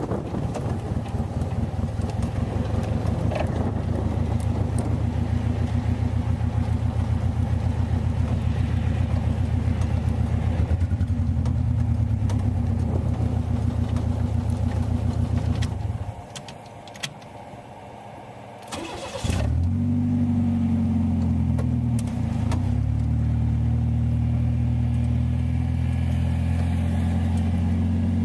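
The GO-4 three-wheeler's gasoline engine runs with a rapid pulsing beat. About 16 seconds in it drops away, and about three seconds later it comes back suddenly and runs on with a steadier, higher-pitched tone.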